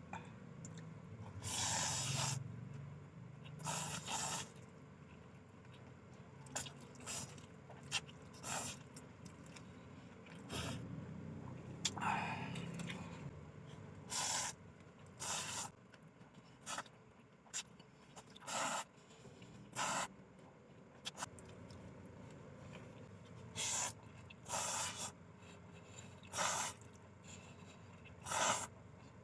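Close-miked slurping of chicken noodles: about twenty short, hissing sucks at irregular intervals, a few lasting around a second.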